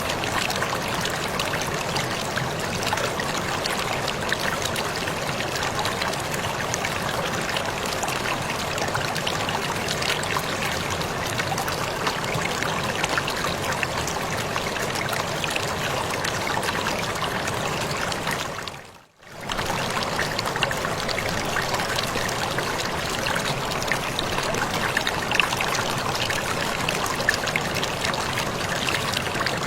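Waterfall splashing steadily, an even rush of falling water. About two-thirds of the way through it fades out briefly and comes straight back.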